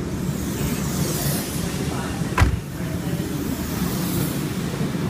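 Sydney Trains K-set electric suburban train pulling out of the platform: a steady low rumble with a single sharp knock about halfway through.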